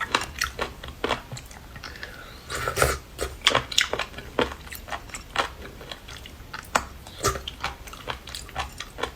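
A person chewing and biting seafood: an irregular run of short sharp clicks, several a second.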